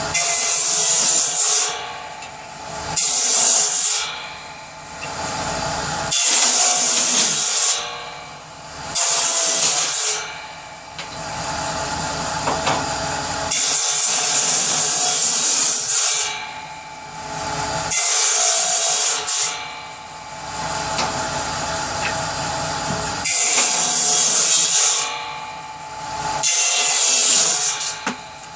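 Power saw running steadily, making about eight cuts through pieces of kindling wood, each cut a loud rasping burst of one to two seconds.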